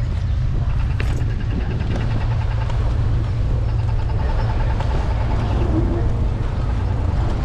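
Steady low rumble of wind and road noise on a handlebar-mounted camera as an electric scooter rides along a city street, with traffic around.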